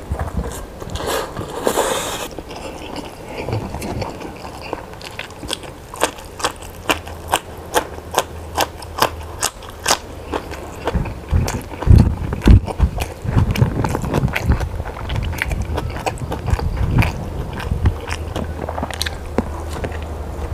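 Close-miked chewing of food: a steady run of crisp, crunchy bites at about two a second, with a few louder dull knocks a little past halfway.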